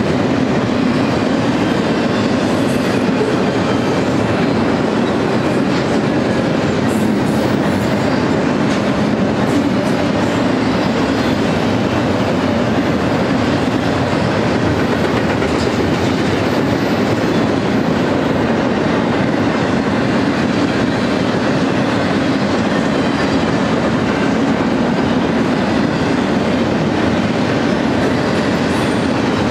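Double-stack container train's well cars rolling past at a steady pace: the continuous, even noise of steel wheels running on the rails.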